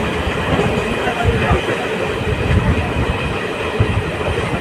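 A passenger train running on the track: a steady rumble and rattle of the wheels and coaches.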